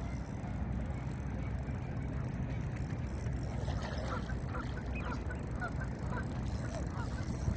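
A flock of birds calling: many short, scattered calls starting about three and a half seconds in, over a steady low rumble.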